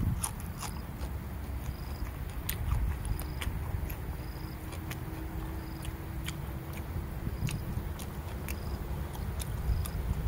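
A person chewing and smacking a mouthful of raw beef and chili dip close to the microphone: scattered wet mouth clicks over a low rumble.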